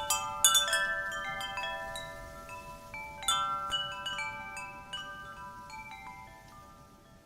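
Wind chimes ringing, several notes struck together in clusters near the start and again about three seconds in, each note ringing on and the whole sound dying away toward the end.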